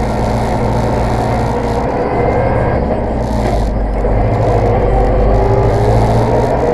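Zetor tractor's diesel engine running steadily while driving, growing slightly louder about four seconds in.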